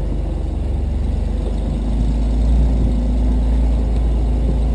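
Off-road vehicle engine running steadily at low revs, a deep, even rumble.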